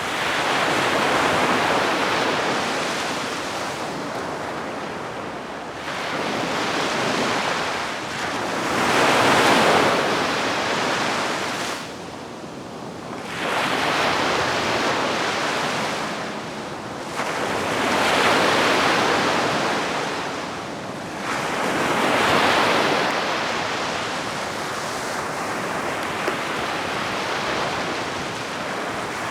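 Gentle sea waves washing onto a beach, each swell of surf rising and fading every three to four seconds.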